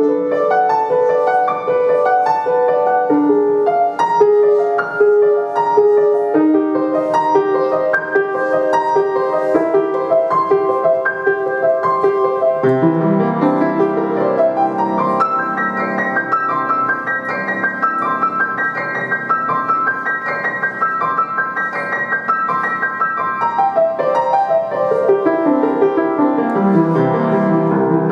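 Solo piano playing a flowing melodic piece; about halfway through, the texture grows fuller with sustained low bass notes, then thins again with a descending run near the end.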